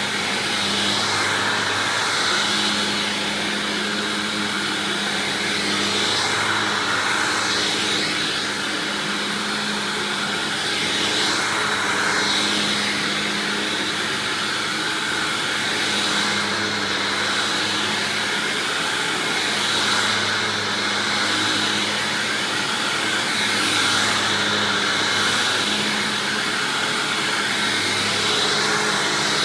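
Hoover Windtunnel self-propelled upright vacuum running on a swapped-in Maytag-era Windtunnel motor, with its self-propelled drive engaged. The steady motor hum carries a high whine and swells and eases every few seconds.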